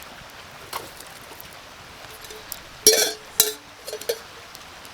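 Metal camp cookware clinking: a light click, then a few sharp metallic clinks about three seconds in with brief ringing, and two smaller clinks after.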